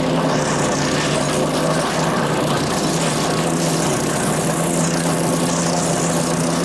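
Power King chipper shredder running on its Kohler CH440 14 HP single-cylinder engine, with a steady engine note. The note wavers and drops slightly for a couple of seconds near the middle, and a hiss over it rises and falls.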